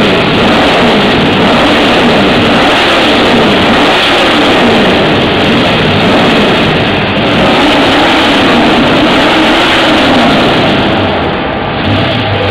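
Ford Maverick engine being revved again and again, its pitch rising and falling every second or two with a loud exhaust rumble.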